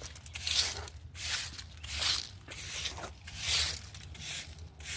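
Dry rustling and crinkling of ground cherry foliage and papery husks being pushed aside by hand, in a run of short bursts about every 0.7 seconds.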